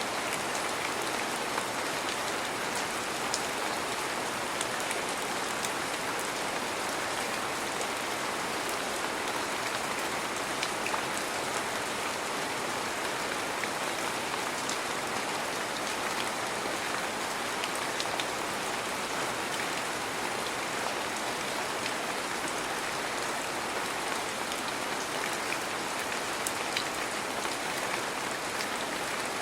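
Heavy rain falling steadily, with scattered sharp drop ticks on a hard surface.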